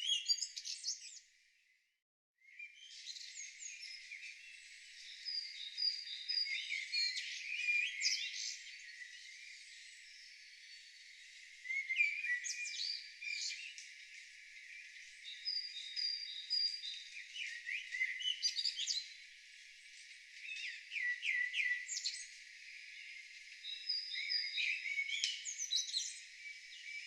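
Several wild songbirds singing together: overlapping chirps, trills and short whistled notes. The sound drops out briefly about two seconds in, then the song carries on.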